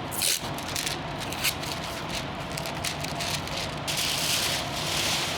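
Masking tape and masking paper being handled for primer masking: irregular crackles and rustles, with a longer rasp of tape unrolling about four seconds in.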